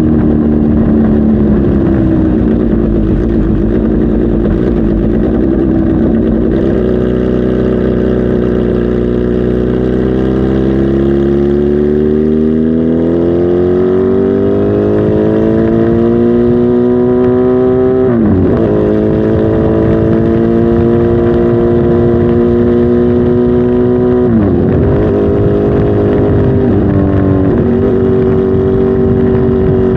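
Kawasaki Z H2 SE's supercharged inline-four running under way, its note climbing slowly as it accelerates, then dropping sharply at two gear changes before holding steady.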